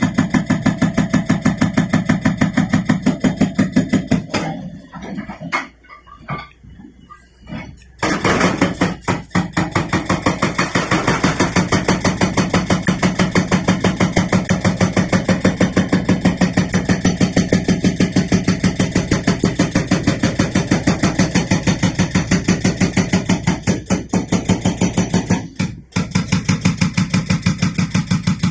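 Hydraulic rock breaker on a Liugong 921DI excavator hammering rock at the bottom of a well, in rapid, evenly spaced blows several a second. The hammering stops for a few seconds about four seconds in, then resumes, and breaks off again briefly near the end.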